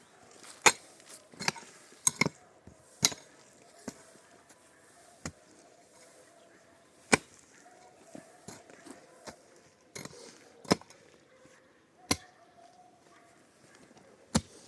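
A series of about a dozen sharp knocks or blows at an uneven pace, some close together in pairs, with longer gaps between others.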